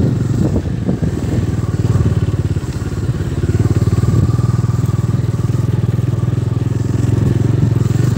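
Motorcycle engine running steadily while riding, its firing pulses forming an even, continuous drone.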